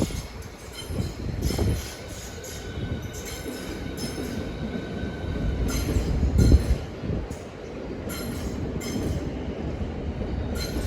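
Class 395 Javelin high-speed electric multiple unit running through, its wheels knocking over rail joints several times against a steady rolling rumble. A faint high steady tone is heard from about two seconds in to about six seconds in.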